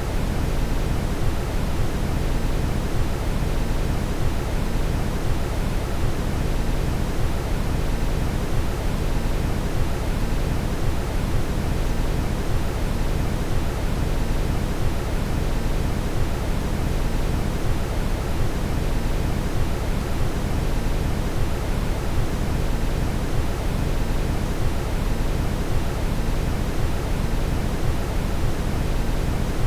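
Steady brown noise: an even, deep rushing hiss, heaviest in the low end, that does not change.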